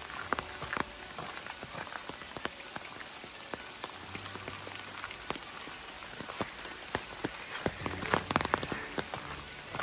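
Light rain: an irregular patter of drops ticking on leaves and wet ground, with a brief flurry of louder drops about eight seconds in.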